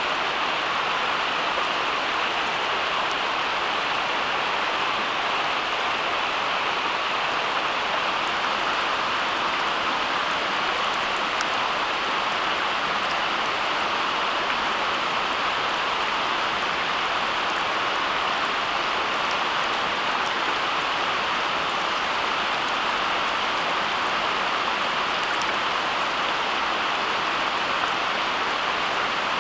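A steady, even rushing hiss like rain falling, unchanging throughout, with a few faint scattered ticks.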